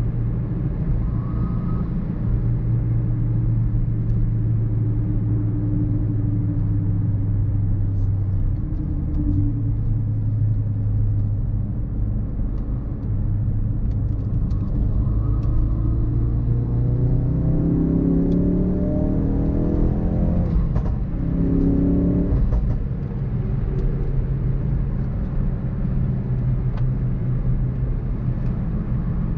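Mk3 Ford Focus RS's 2.3-litre turbocharged four-cylinder engine under way with road noise: a steady engine note, then the revs climb for several seconds past halfway in, break sharply at a gear change, climb briefly again and drop back to a steady note.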